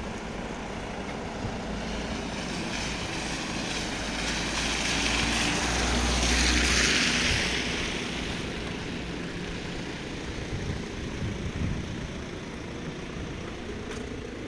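A car driving past on a flooded, rain-soaked street, its tyres hissing through the water as it approaches, loudest about halfway through, then fading away. A steady hiss of rain and running water goes on underneath.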